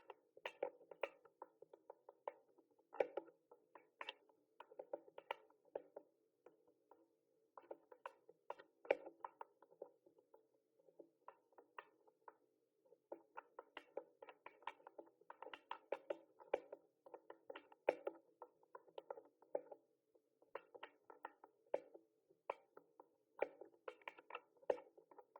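Mechanical keyboard being typed on: rapid key clicks in bursts, broken by brief pauses.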